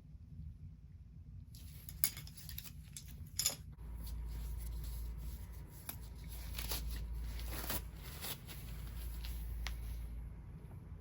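Hands massaging bare feet close to the microphone: soft rubbing and rustling of skin with scattered small clicks. A low rumble sets in about four seconds in.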